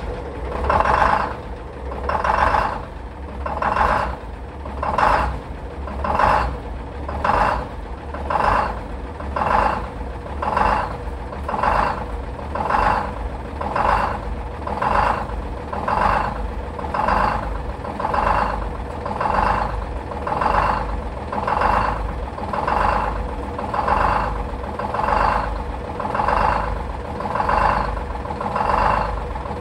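Detroit Diesel 6-71N two-stroke inline-six diesel running just after a cold start, with a steady drone and a regular swelling in sound a little more than once a second.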